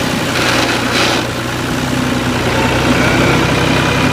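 New Holland Al-Ghazi tractor's diesel engine running steadily, with a brief hissing rush about half a second to a second in.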